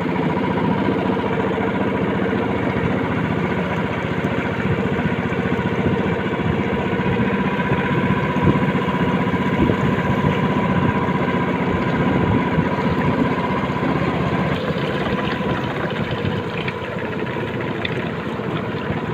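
A small engine running steadily at an even speed, with a held engine tone and a rapid pulsing beat throughout.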